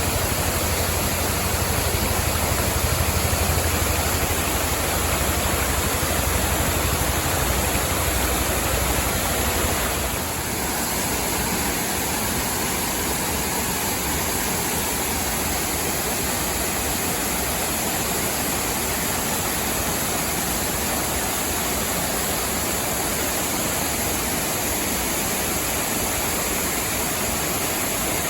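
Waterfall: a steady rush of falling water. A deep low rumble under it drops away about ten seconds in.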